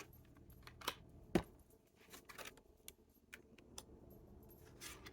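Tarot cards being handled: a few soft clicks and taps as cards are picked up, flipped and laid down, the sharpest about a second and a half in.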